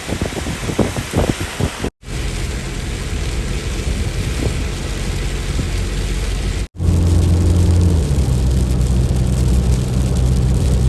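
Rain and wind noise, with gusty blasts on the microphone at first. About seven seconds in, a loud, steady low rumble sets in abruptly.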